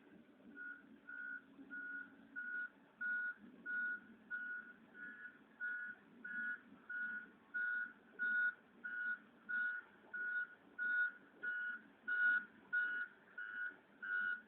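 Backup alarm of a Caterpillar 140H motor grader beeping in a steady rhythm, about one and a half beeps a second, over the low hum of its diesel engine: the grader is in reverse.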